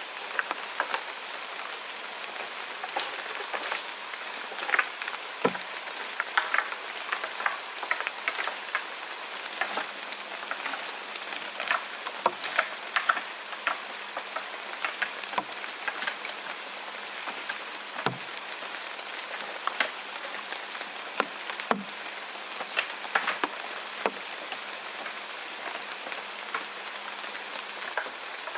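Steady rain falling, with scattered louder drops ticking irregularly throughout.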